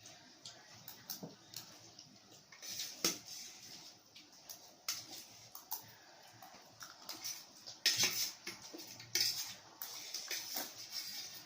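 Irregular clinks and scrapes of eating utensils against plates or bowls while noodles and eggs are eaten quickly. The loudest clink comes about eight seconds in.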